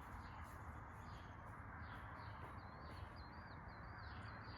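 Small birds chirping over a faint steady hiss, with a quick run of short high chirps in the second half.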